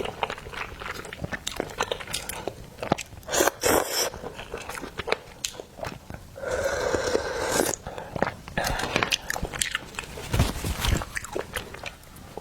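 Close-miked eating sounds: a person biting and chewing garlic-vermicelli oysters, with many short wet mouth clicks and a steadier sucking noise lasting over a second about six seconds in.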